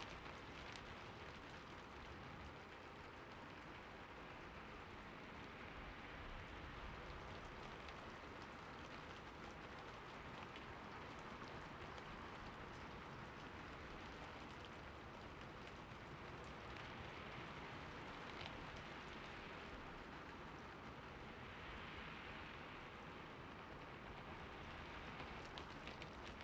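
Steady rainfall: an even hiss of rain with scattered individual drops ticking on surfaces.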